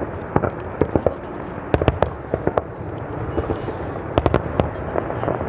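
Aerial fireworks bursting: a steady low rumble of shells with many sharp cracks and pops, in a cluster about two seconds in and again just past four seconds.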